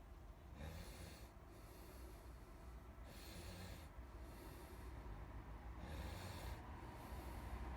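Paint being scraped or abraded off a metal weight's ring: faint, rasping strokes repeated about once every second or so.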